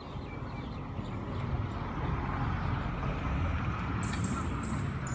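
A taxi boat's engine running with a steady low hum over a hiss, growing louder over the first couple of seconds and then holding. From about four seconds in there are a few short crackles.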